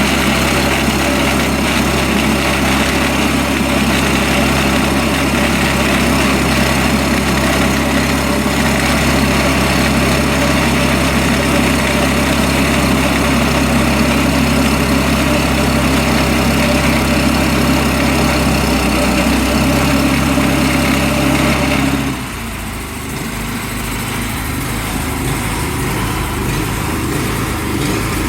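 Engine of a sawmill running steadily. About three-quarters of the way through it suddenly drops in level and its low hum changes, as if the mill came off load or throttled down.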